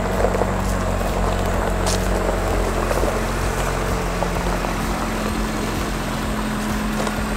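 Jeep Wrangler JL Rubicon's engine running at a steady idle.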